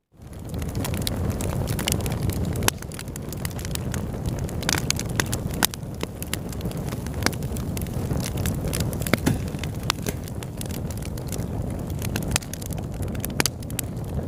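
Wood fire burning in a fireplace: a steady low rush of flame with frequent sharp crackles and pops of burning wood.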